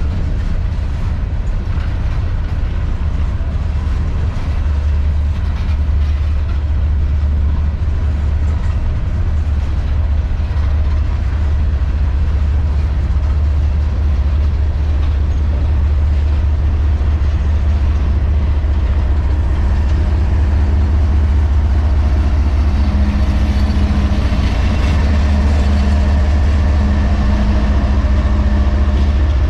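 Empty CSX coal train rolling by, a steady low rumble from the cars. A steady pitched hum joins in over the last ten seconds or so.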